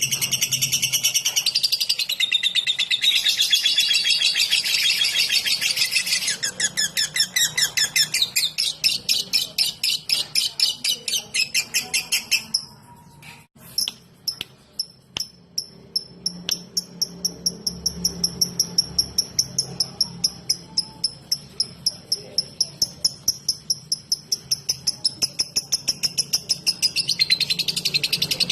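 Lovebird singing its rapid 'ngetik' ticking chatter, a lure song for other lovebirds: dense high chatter that turns into long runs of fast, evenly repeated ticks, with a short pause and a few clicks just after the middle, then dense chatter again near the end.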